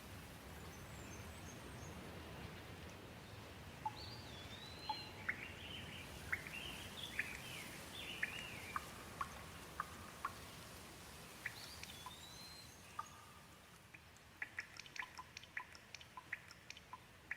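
Gentle rain falling steadily and faintly, with a bird calling over it in a string of short gliding chirps from about four seconds in. Near the end the rain thins and a quick run of sharp drips or ticks takes over.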